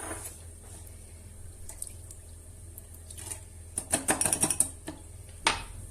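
Lemon juice and water being poured into a saucepan of sugar for syrup, with a quick run of clicks and taps about four seconds in.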